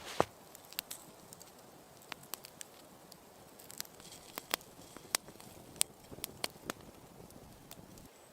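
Wood fire crackling, with scattered sharp pops and clicks at irregular intervals over a quiet background; the loudest pop comes just after the start.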